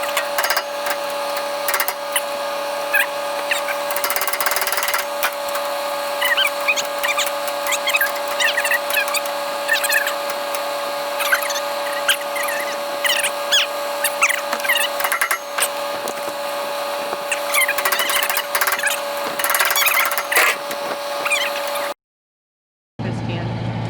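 Sped-up sound of hand tools working on a combine header's sickle: rapid clicks and clanks, with quick chirping squiggles, over a steady machine hum. It cuts off about a second before the end.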